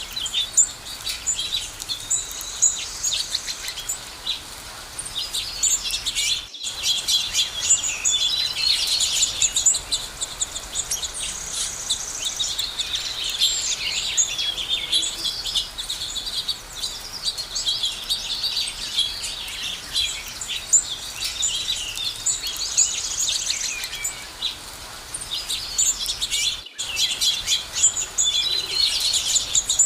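A chorus of many small birds chirping and singing at once, dense overlapping high calls and trills with no pause, broken twice by a split-second gap in the sound.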